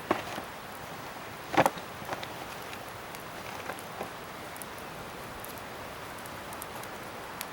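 Scrap-wood bonfire burning with a steady crackle and a few sharp pops, the loudest about one and a half seconds in.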